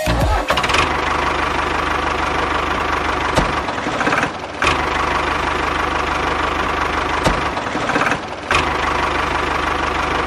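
Small DC motor of a homemade toy tractor running with a steady buzz, cutting out briefly twice and starting again.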